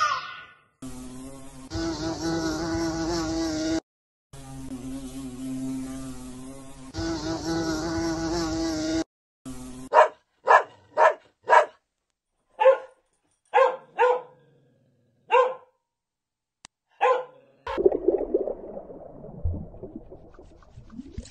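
A steady buzzing drone in two long stretches, then about ten short, sharp barks or yaps from a small dog, spaced roughly half a second to a second apart.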